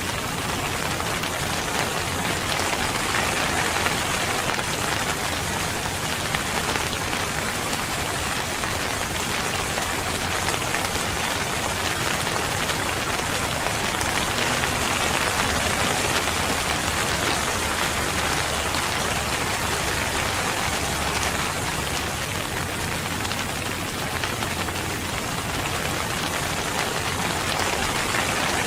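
Steady rain falling and pattering on surfaces, an even, unbroken hiss of many drops.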